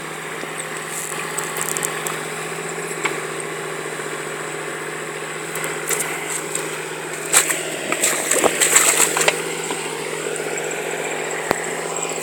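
Engine of a tracked machine running steadily at idle, with a cluster of clicks and clatter between about seven and nine seconds in.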